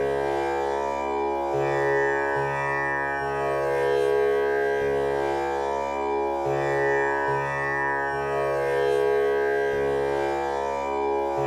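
Tanpura drone tuned to C# (male pitch), its four strings plucked one after another in a slow cycle that repeats about every five seconds. Each pluck blooms into a sustained, shimmering swell of overtones over a continuous drone.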